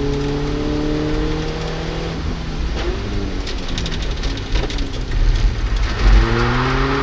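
Peugeot 206 S16's four-cylinder engine heard from inside the cabin under hard acceleration on a wet track: it revs up steadily, drops off about two seconds in, and climbs again near the end. Road and rain noise run underneath, with a run of light clicks in the middle.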